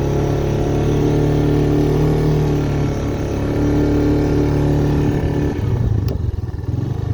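1985 Honda ATC Big Red 250ES three-wheeler's single-cylinder four-stroke engine running steadily while plowing snow. The revs ease off about five and a half seconds in, with a single sharp click shortly after.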